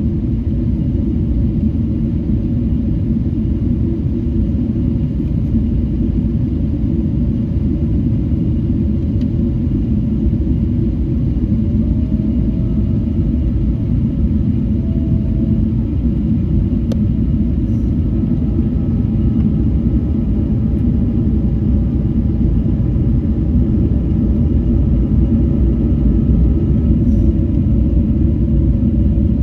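Steady low rumble of engines and airflow inside the cabin of a Boeing 777-300 on final approach. Faint steady whining tones join about halfway through.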